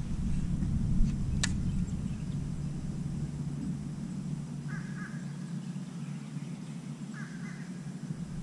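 Two short bird calls about two and a half seconds apart, over a steady low rumble, with a single sharp click about a second and a half in.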